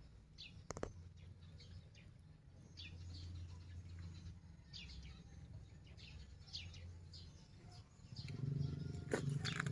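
A small bird chirping: a string of short, falling chirps, roughly one or two a second, over a faint low rumble. There is a single sharp click about a second in, and louder rustling near the end.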